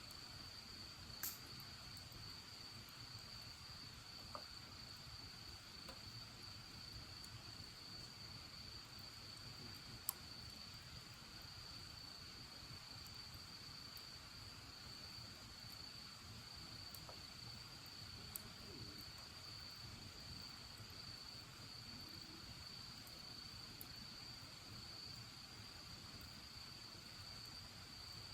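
Faint, steady high chirring of insects, likely crickets, with a few sharp pops of a wood bonfire crackling. The loudest pop comes about ten seconds in.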